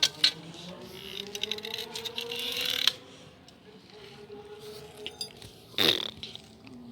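Handling noises from work on a bicycle tyre and wheel: scraping and clicks, then a rapid run of clicks that builds and stops sharply about three seconds in. A short sweeping sound comes near the end.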